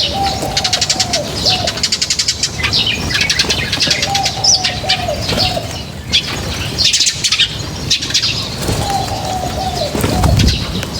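A flock of feeding birds: rapid runs of high chirps and wing flutter throughout, with a lower call of several quick notes coming three times, at the start, about four seconds in and near the end.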